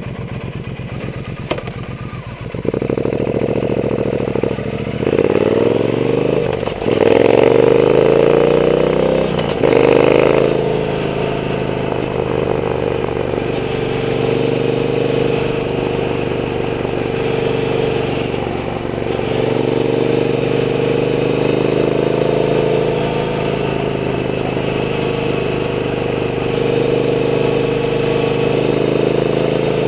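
Triumph Bonneville T120's 1200 cc parallel-twin engine through a Zard aftermarket exhaust, accelerating through the gears with a rising pitch broken by three shifts, then settling to a steady cruise from about ten seconds in.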